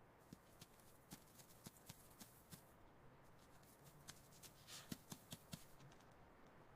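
Faint, irregular light taps and scratches, like a mouse scurrying, with one brief higher scratchy hiss a little under five seconds in.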